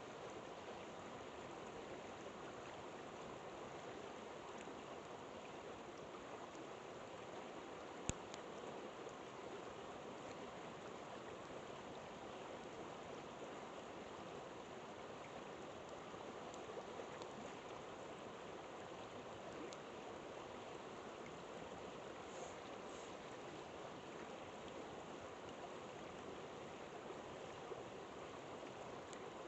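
Steady rush of a flowing river, with a few sharp pops of a campfire crackling, the loudest about eight seconds in.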